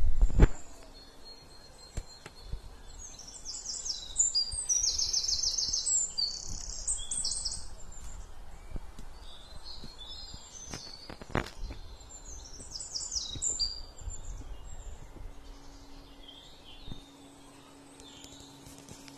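Songbirds singing in quick, rapidly repeated high phrases, in two spells, over outdoor background noise, with a couple of sharp knocks.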